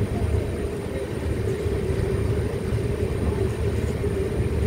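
Express train passenger coach running along the track, heard from its open doorway: a steady rumble of wheels on the rails and running gear.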